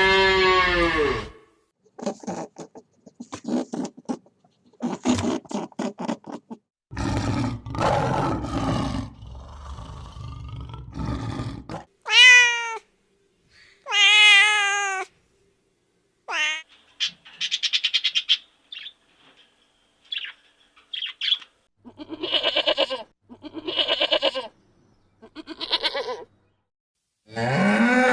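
A run of separate farm-animal calls with short silent gaps between them, among them cat meows.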